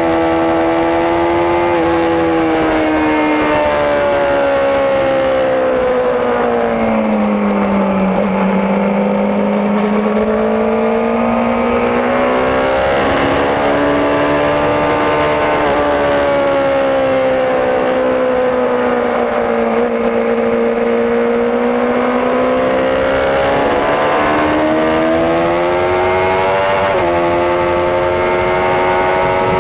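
Superbike racing motorcycle engine heard on board at high revs. The pitch sinks to its lowest about eight seconds in, then builds back up, with sudden jumps in pitch at gear changes.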